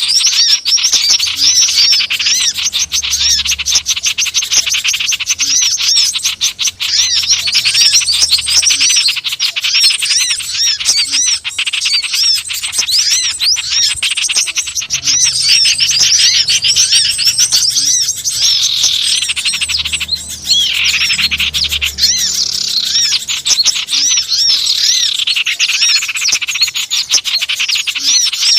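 Dense, noisy chatter of many small wild birds: rapid, overlapping high chirps and twitters that run on without a break. It is a bird-lure recording meant to call small birds together.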